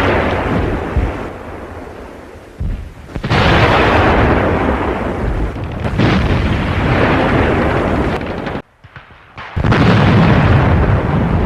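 Tiger I tank's 88 mm KwK 36 main gun firing three times a few seconds apart, each shot a sudden blast followed by a long rumbling decay. The sound cuts out briefly just before the last shot.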